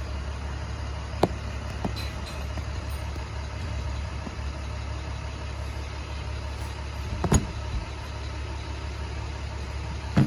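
Box truck engine idling with a steady low hum. A sharp click or knock about a second in and another around seven seconds in.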